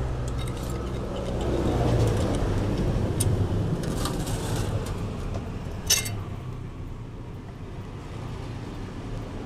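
Aluminium cylinder block of a Yamaha NMAX scooter engine being worked loose and slid off its studs by hand: light metal clicks and scraping, with one sharp metal clink about six seconds in. A steady low rumble of traffic runs underneath.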